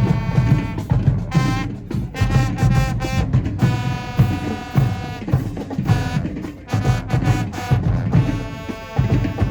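High school marching band playing, with brass chords held over a pounding drumline and bass drums.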